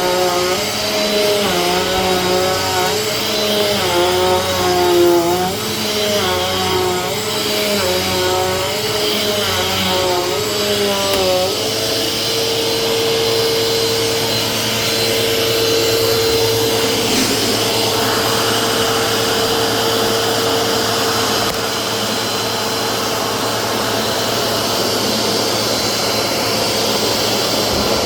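Vacuum cleaner running. For the first eleven seconds or so its motor whine dips and rises about every second and a half, then it settles into a steady, slightly higher whine.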